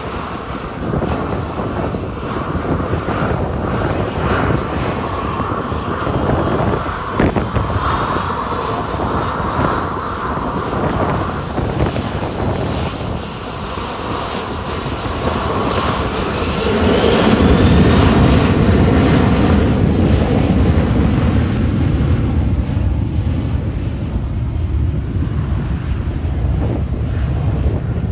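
Departing jet airliner's engines: a whine that shifts in pitch as the plane passes, then a louder low rumble building about two-thirds of the way in and slowly easing off. Wind buffets the microphone throughout.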